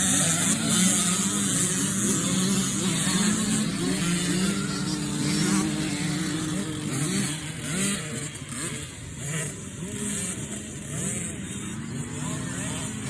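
Motocross dirt bike engines revving up and down as they ride, several overlapping. The sound eases a little past the middle and builds again near the end.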